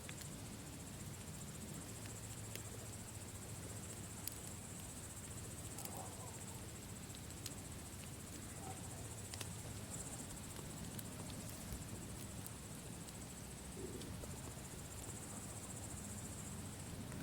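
Campfire burning with scattered sharp crackles and pops at irregular intervals over a low steady rumble, with crickets trilling steadily in the background.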